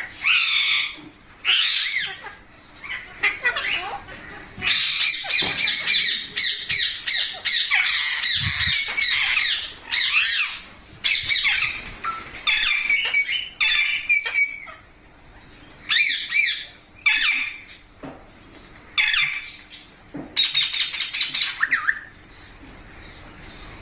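Pet rose-ringed (Indian ringneck) parakeets squawking in sharp, high calls. A long stretch of dense chattering starts about five seconds in, then short calls come at intervals.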